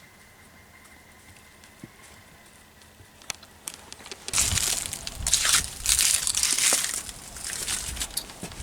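Near quiet for about four seconds, then loud, irregular crunching and crinkling close to the microphone with low thumps mixed in, easing off toward the end.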